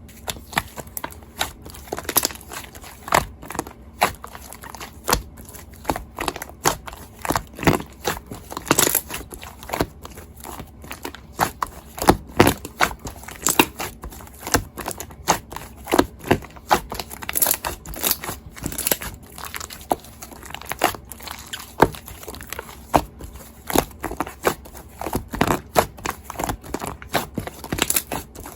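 Irregular crinkling and crackling with many sharp clicks a second, close to the microphone.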